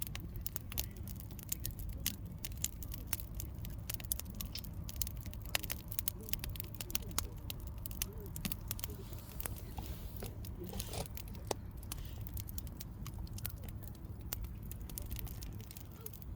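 Firewood fire crackling, with frequent sharp pops and snaps of burning logs over a steady low rumble.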